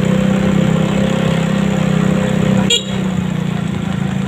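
Motorcycle engine running steadily while riding, with one brief sharp click nearly three seconds in.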